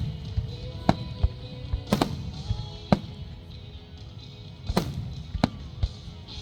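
Fireworks going off in a string of sharp bangs at irregular intervals, some with a short ringing tail, over music playing.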